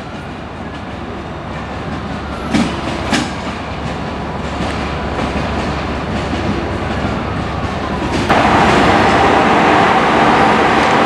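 Train running on rails with a steady rumble and a pair of sharp wheel clacks over a rail joint about two and a half seconds in. About eight seconds in the sound jumps abruptly louder.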